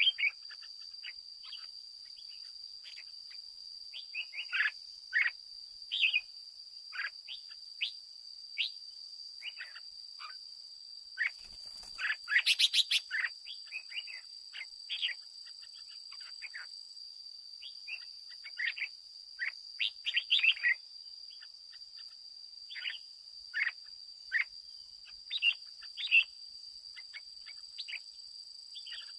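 Red-whiskered bulbul calling in short, sharp chirps and brief phrases, with a quick run of rapid sharp clicks near the middle. A steady high-pitched whine runs underneath.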